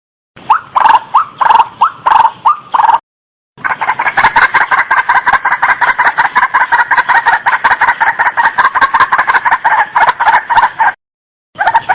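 White-breasted waterhen calling. First a few rising notes, about three a second. Then, after a short break, a long fast run of repeated notes lasts about seven seconds, stops abruptly, and starts again just before the end.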